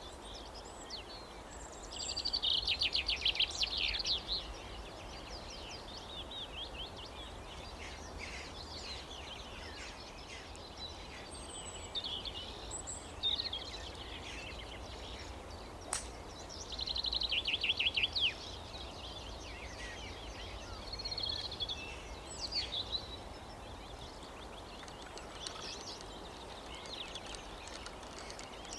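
Birds singing on and off over a low outdoor background hum, with two rapid trilled phrases of about two seconds each, one early and one past the middle. A single sharp click sounds about halfway through.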